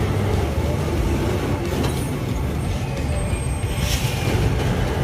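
Heavy truck engine running with a steady low rumble while the truck manoeuvres.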